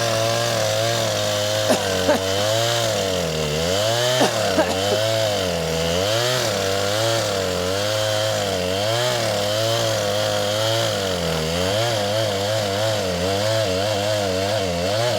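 Gas chainsaw running under load in a cut, its engine pitch dipping and recovering again and again as the chain bogs in the wood. There are a couple of sharp knocks early on.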